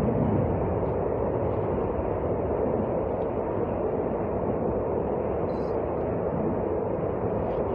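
Train in motion: a steady rumbling running noise.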